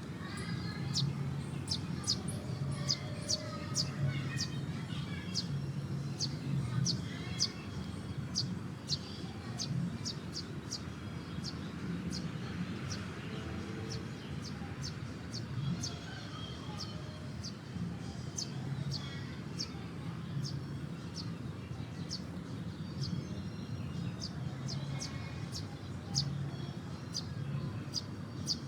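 Small birds chirping, a quick busy run of short high chirps, several a second throughout, over a low hum that pulses on and off.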